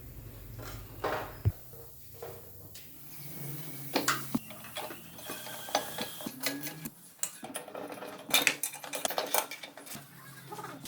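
Irregular metal clinks and knocks, as of steel parts and tools being handled and set down: a few scattered taps at first, then a busier run of clinks from about four seconds in.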